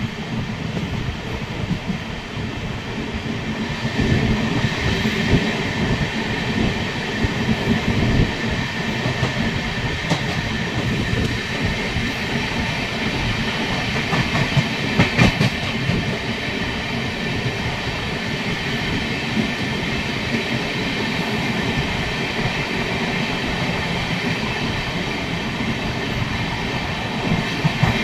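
Amrit Bharat Express passenger train running on the rails: a steady rumble with irregular knocks and a few sharp clicks. It grows louder about four seconds in.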